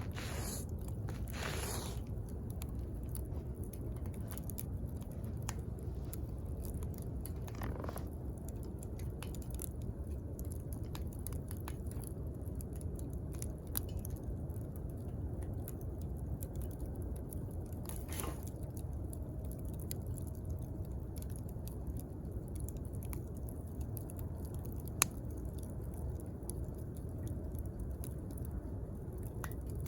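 Wood campfire burning and crackling: scattered small pops and snaps over a steady low rumble, with a few brief soft hisses and one sharper pop near the end.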